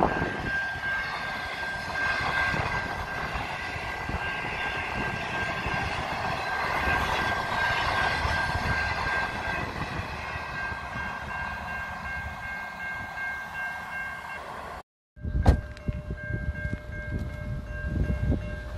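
Long passenger train rolling past at a level crossing, its carriages running over the rails, with a steady ringing tone from the crossing's warning bells. About 15 seconds in the sound cuts out for a moment, then the ringing continues with uneven low rumbles.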